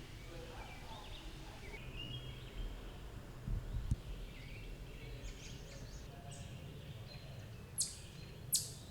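Birds chirping: scattered short high calls over a low background hum, and near the end three sharp, loud chips that sweep quickly down in pitch.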